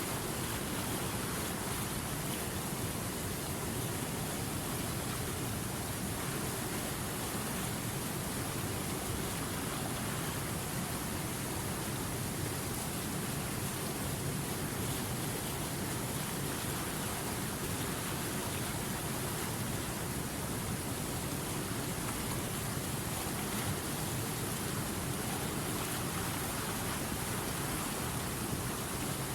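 River water running steadily: an even, unbroken rushing hiss of flowing water, with no separate splashes or other sounds standing out.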